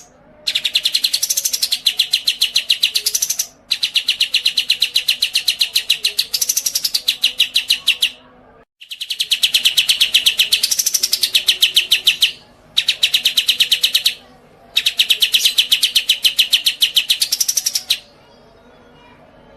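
A songbird singing long, very fast trills of rapidly repeated notes in five runs of one to four seconds each, with short pauses between them. The trills stop a little before the end.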